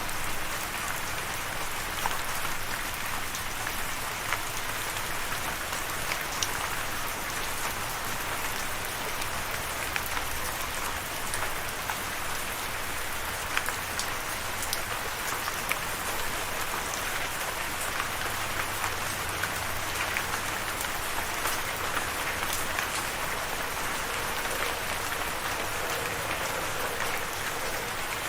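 Steady rainfall on a surface, an even hiss with scattered sharper drop ticks throughout.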